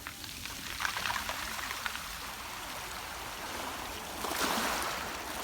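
Waves washing over a stone beach, the pebbles clicking and rattling in the water. One surge comes about a second in with sharp clicks, and a bigger wash comes near the end.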